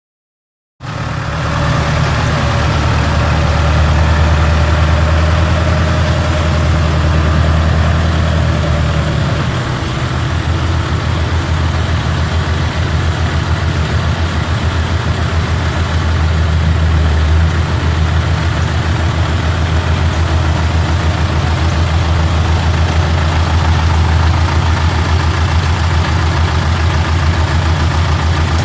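The John Deere 5410 tractor's 4.5 L four-cylinder diesel engine runs steadily at idle. The sound cuts in already running just under a second in, and the engine note shifts slightly about ten seconds in.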